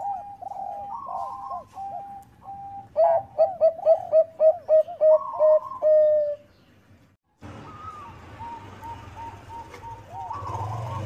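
Zebra dove (Thai-bred perkutut bangkok) cooing: a rapid, rhythmic run of short coos that grows loud about halfway through. After a brief pause, softer repeated coos continue over a low hum.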